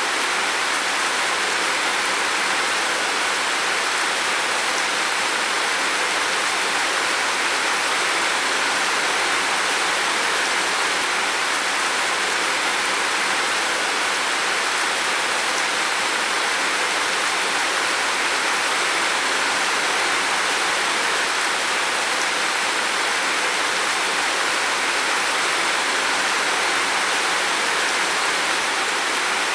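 Heavy rain falling on a roof, a dense steady hiss that does not let up.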